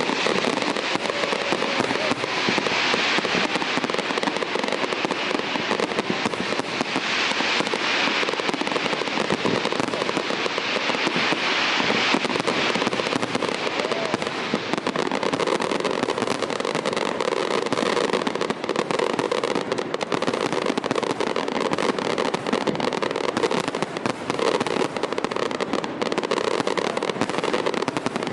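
Fireworks display: a dense, continuous crackle of many small bursts.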